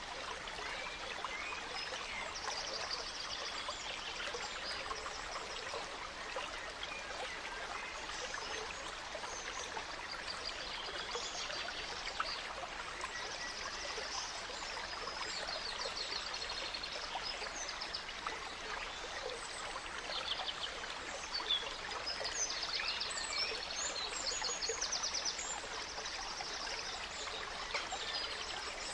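A small stream running steadily, with several songbirds singing short phrases of rapid high notes over it, busier in the second half.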